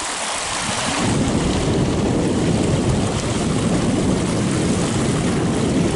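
Storm runoff rushing down a steep, rock-lined pond spillway: a steady rushing noise that turns louder and deeper about a second in.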